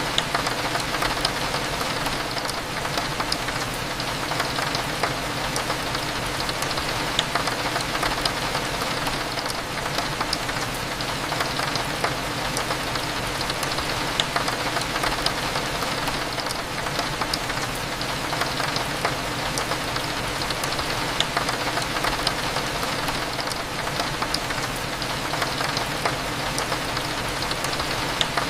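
Steady rain against a window, with frequent small sharp ticks of single drops, over a low steady hum of cafe ambience.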